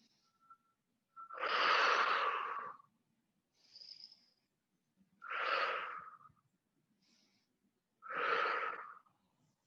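A person breathing slowly close to the microphone: three loud breaths about three seconds apart, with fainter breaths between them and a thin whistle running through the breath.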